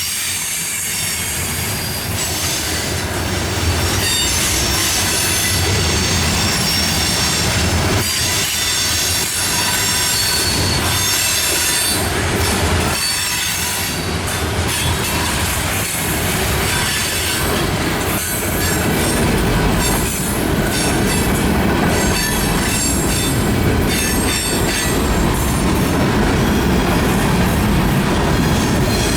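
Railroad cars rolling past with a steady low rumble, their wheels squealing in several high, shrill tones.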